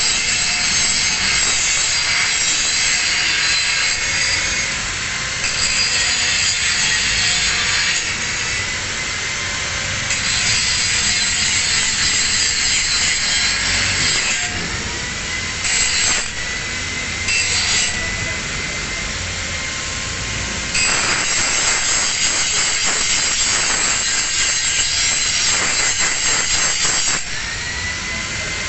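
Angle grinder grinding a single bevel on a steel plate. The grinding noise swells and drops back in spells over a steady motor whine, and the whine rises in pitch near the end.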